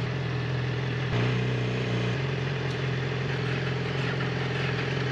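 A vehicle engine idling steadily, with a brief change in its tone about a second in.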